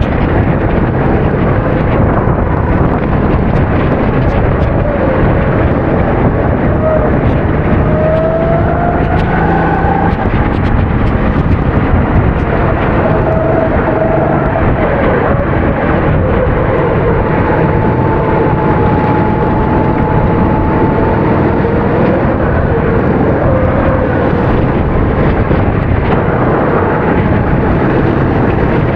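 270cc kart engine running at race speed, its pitch rising and falling as it accelerates and lifts, under a loud steady rush of noise.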